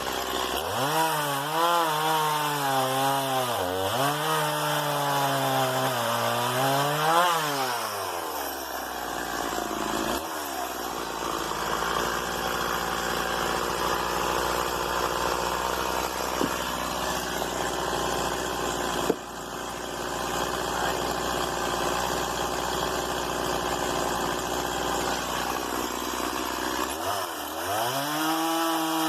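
Small two-stroke STIHL MS 170 chainsaw revving up from idle, its pitch rising and falling several times. It then cuts through wood for about twenty seconds, and near the end it revs freely again as the chain comes out of the cut.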